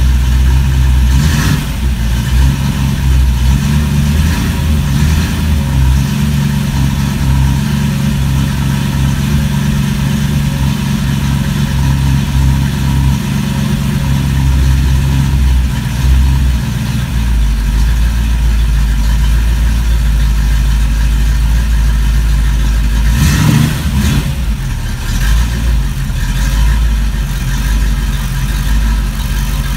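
A .030-over 283 small-block Chevrolet V8 running on a test stand, its exhaust going out through Flowmaster 50 Series Delta Flow chambered mufflers. It runs steadily at idle, with a change in its running note about two-thirds of the way through and a short rev shortly after.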